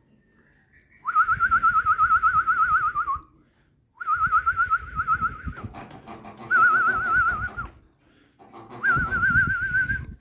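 A pet bird whistling: four warbling phrases, each a single wavering tone held for one to two seconds, with a low rumble under each.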